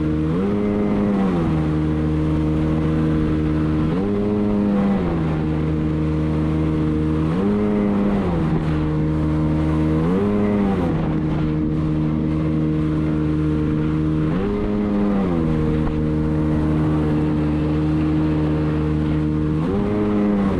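Sea-Doo jet ski engine running at a steady speed, its revs jumping up briefly and dropping back about six times, over rushing water and wind noise. The rider says the ski is acting up.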